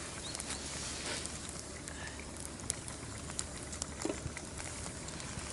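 Wood fire crackling in a fire pit: scattered sharp pops over a steady hiss.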